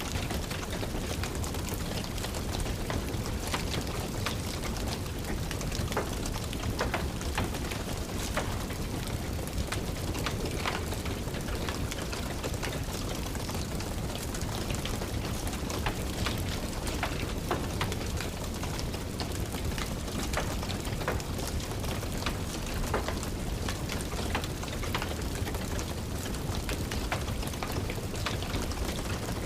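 Steady rain mixed with a crackling wood fire: an even hiss throughout, dotted with frequent small, irregular pops and snaps.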